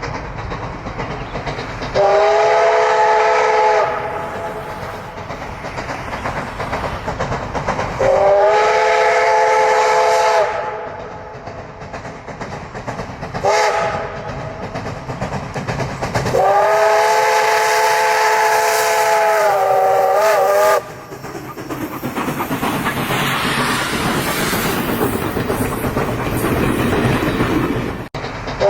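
A steam locomotive's chime whistle sounds a chord of several notes in four blasts, long, long, short, long, the last one wavering as it closes: the pattern of a level-crossing warning. Between the blasts the train runs on with a steady rumble and steam hiss.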